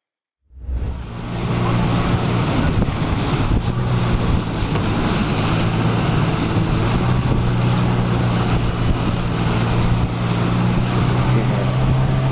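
Boat engine running steadily with a low hum, mixed with wind buffeting the microphone and rushing water. It cuts in suddenly about half a second in.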